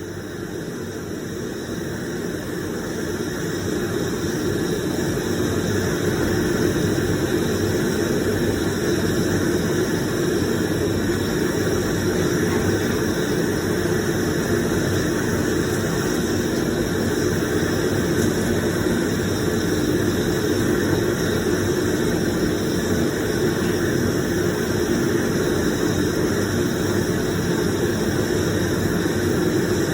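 Homemade forge's torch burner running with a steady rushing roar that swells over the first few seconds, then holds level.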